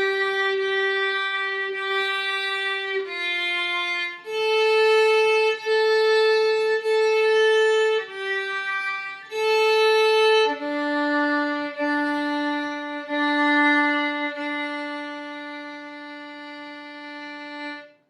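Violin playing a slow beginner exercise in single bowed notes, a few seconds each, with the pitch stepping between notes. It ends on a long lower note held over several bow strokes.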